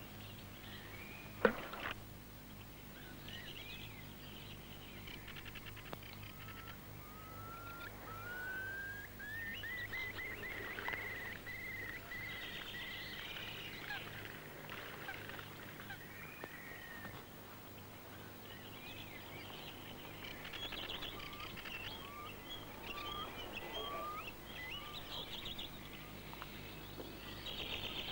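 Small birds singing and calling, including a long run of short repeated whistled notes, over a low steady hum. A single sharp click about a second and a half in is the loudest sound.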